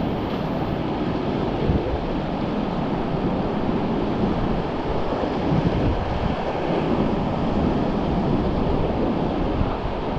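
Whitewater of a river rapid rushing steadily around the raft, with wind buffeting the microphone.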